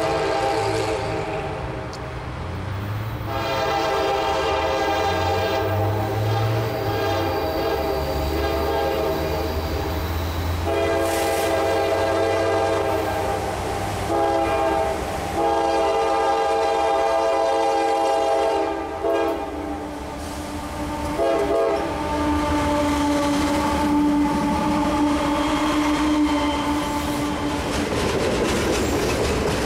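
Diesel freight locomotive's multi-chime air horn blowing the grade-crossing signal: long, long, short, long, over the rumble of the engine and the train. Later a steady, lower-pitched horn chord goes on.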